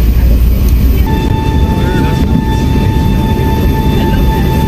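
Airbus A380 cabin noise with its Rolls-Royce engines running: a loud, steady low rumble. About a second in, a steady high whine joins the rumble and holds.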